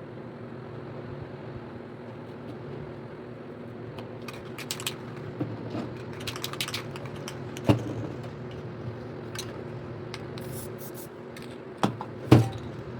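Scattered light clicks and taps, like hard objects being handled, with a sharper knock partway through and two louder knocks close together near the end, over a steady low hum.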